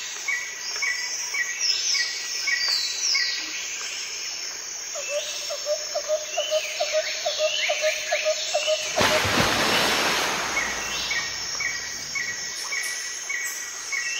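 Birds chirping and singing: a rapid repeated chirp with falling whistled notes over it. A short rush of noise comes about nine seconds in.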